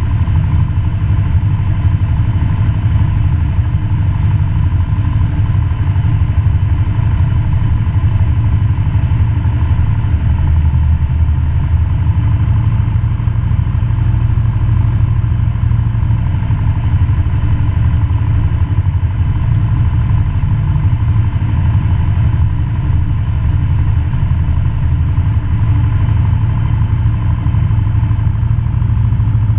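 Cessna 172 Skyhawk's piston engine and propeller droning steadily, heard from inside the cabin.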